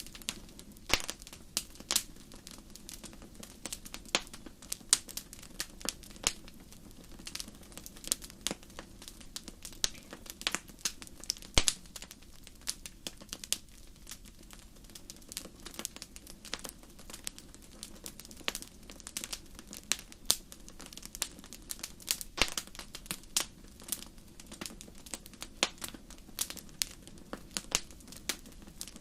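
Wood fire crackling: irregular sharp pops and snaps, sometimes several close together, over a low steady background.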